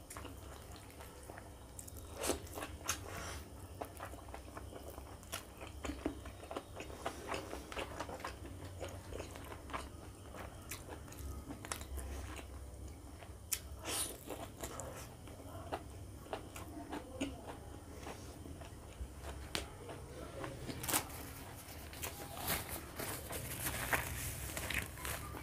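Close-miked chewing and wet mouth smacking of someone eating pork fat and ribs curry with rice by hand, with irregular sharp clicks and a few louder smacks.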